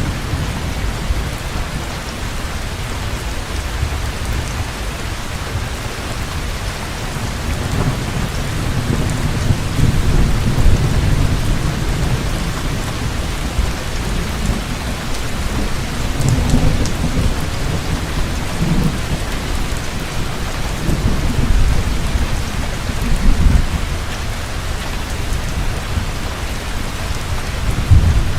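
Heavy rain pouring steadily, with rolls of low thunder rumbling underneath that swell and fade several times.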